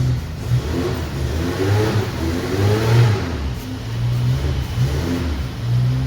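A motor vehicle engine running, its speed rising and falling.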